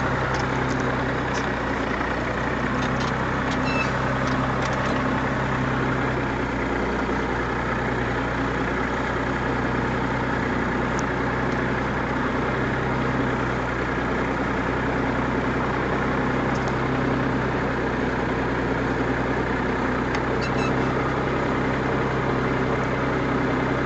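Massey Ferguson 135 tractor engine running steadily at a constant speed.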